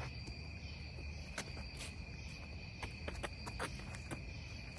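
Insects trilling in one steady, unbroken high tone, with a few faint sharp clicks scattered through it.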